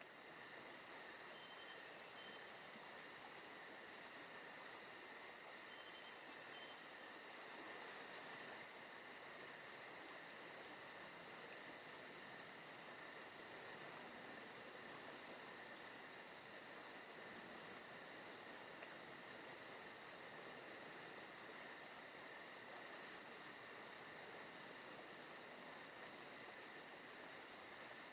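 Forest ambience of crickets chirring steadily, a continuous high-pitched chorus with a fast, even pulse.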